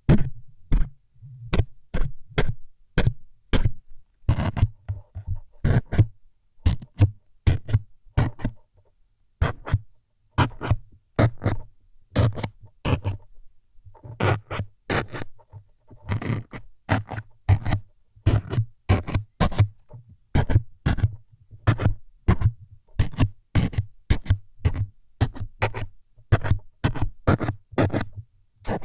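ASMR needle-stabbing sounds: a long run of short, sharp scraping stabs into the microphone, roughly two a second, each with a dull low thud, thinning out briefly about a third of the way in.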